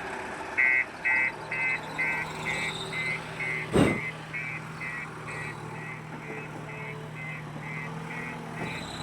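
Vehicle reversing alarm beeping at a steady rate of about two and a half beeps a second over an engine running steadily. A single sharp knock about four seconds in is the loudest sound.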